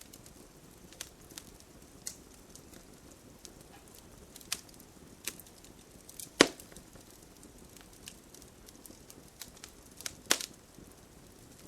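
Campfire crackling: scattered sharp pops and snaps over a low steady hiss, with the loudest pop about six seconds in and another strong one near the end.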